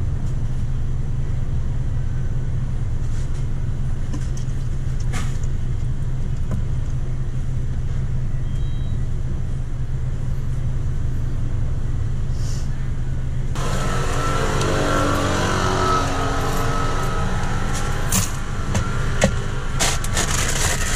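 A car engine idling with a steady low hum. About two-thirds of the way in, a noisier hiss with faint murmuring joins it, and a few sharp clicks come near the end.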